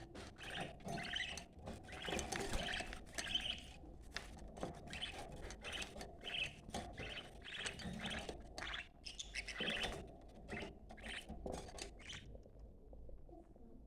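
Budgerigars chattering: dense, rapid chirps with short breaks, which stop shortly before the end.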